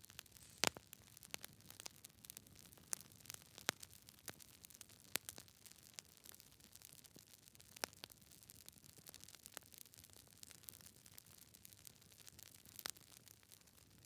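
Wood fire crackling: irregular sharp pops and snaps from burning logs over a faint hiss, the loudest pop about two-thirds of a second in and another strong one near the end.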